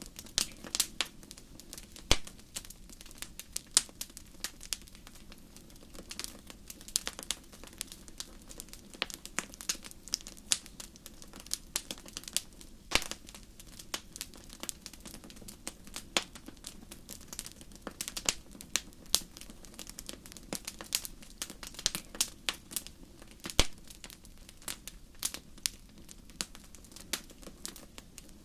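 Wood fire crackling: irregular sharp pops and snaps, a few louder ones, over a steady low hiss of burning.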